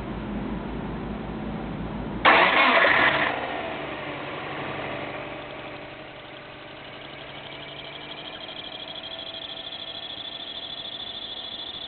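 Subaru Legacy S401's engine cranking over and catching about two seconds in with a brief loud burst of revs, then settling to idle. A thin high whine grows clearer toward the end, the abnormal noise that the owner traced to the power steering pump.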